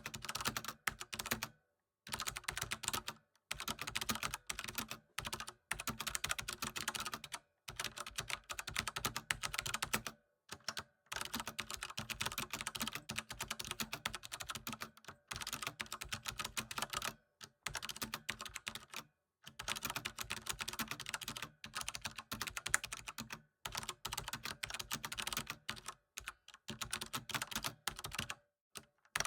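Typing on a computer keyboard: fast runs of key clicks, broken every few seconds by brief pauses.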